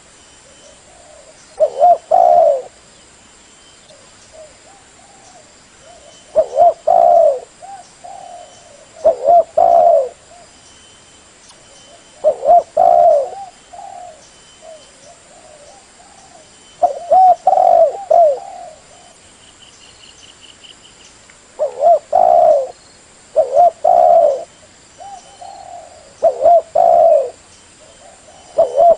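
Spotted dove (terkukur) cooing: short phrases of a few low, mellow coo notes, repeated every two to five seconds.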